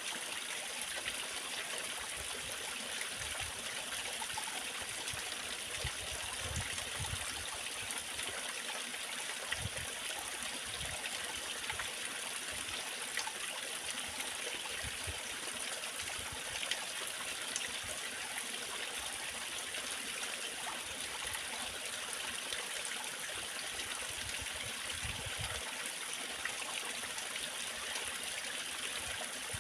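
Waterfall water splashing and rushing in a steady, unbroken wash, with a few brief low rumbles.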